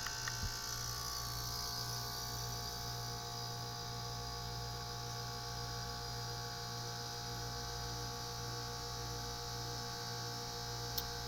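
Heat pump unit running with a steady hum just after a power reset, restarted to clear a low-pressure fault. A faint click near the end.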